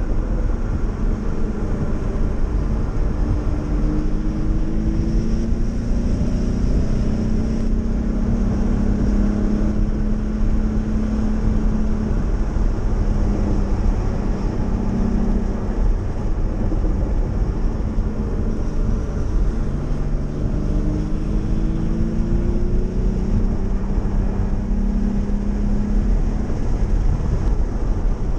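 Porsche 911's flat-six engine pulling hard under track driving, heard from inside the cabin over a steady rumble of tyre and wind noise. Its pitch rises twice as the car accelerates.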